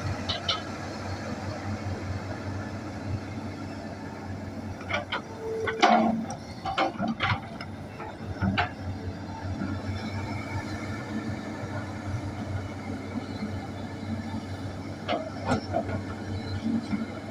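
Hitachi hydraulic excavator running steadily, with a cluster of sharp metal clanks about five to nine seconds in and more near the end as it digs.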